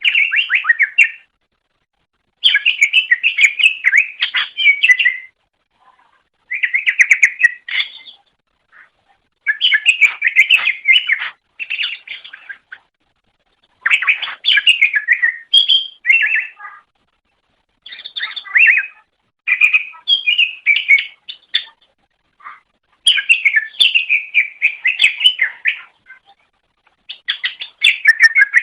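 Green leafbird (cucak ijo) singing: a string of rapid chirping, warbling phrases, each one to three seconds long, separated by short silent gaps.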